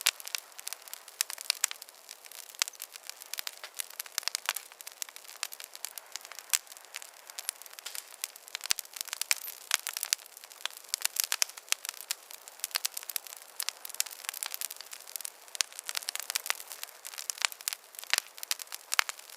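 Wood fire burning with dense, irregular crackling: many sharp pops and snaps, some louder than others, over a soft high hiss.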